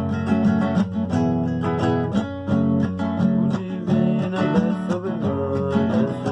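Acoustic guitar strummed steadily, playing a song's chords with no singing.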